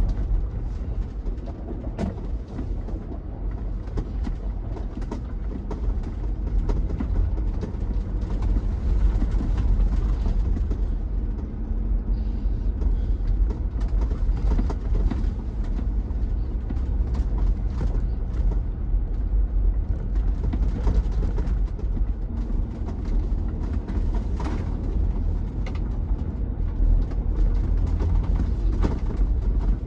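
Footsteps crunching irregularly on snow and ice, over a steady low rumble.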